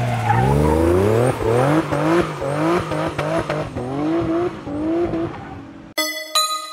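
Twin-turbocharged Nissan 370Z Nismo's 3.7-litre V6 accelerating hard. The engine note climbs and drops again and again, as with quick upshifts, and then fades away. Music begins near the end.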